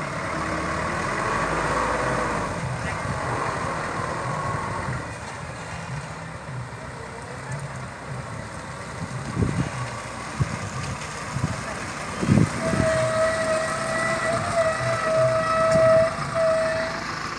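Loaded palm-oil trucks' engines running, low and uneven, with a couple of sharp knocks around the middle. About twelve seconds in, a truck horn sounds a steady note held for about four seconds.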